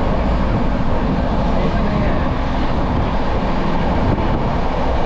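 Passenger train running on the line, with a steady loud rumble of wheels on rails and wind noise rushing in through the open coach doorway.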